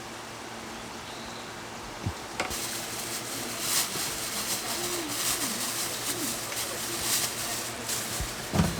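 Rain falling in a forest, an even hiss that becomes busier with scattered drips from about two seconds in. A bird's faint low calls come through in the middle.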